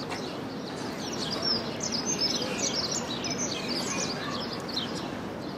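Small birds chirping and twittering, many quick high calls in close succession, over a steady low background murmur.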